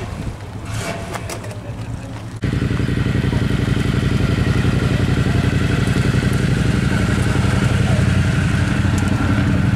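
A Rover P5B's 3.5-litre V8 pulling away. About two seconds in, a much louder Toyota Celica GT-Four's turbocharged four-cylinder takes over, running steadily at low revs as the car rolls slowly past.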